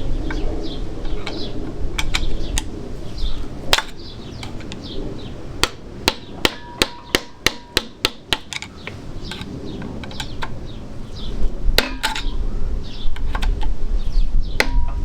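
Hammer striking a large screwdriver, metal on metal, to knock back the bent-over retaining washer on a Fiat 500 engine's crankshaft hollow bolt. A few scattered blows, then a run of about eight quick strikes at roughly three a second, some with a brief metallic ring, and a few more near the end.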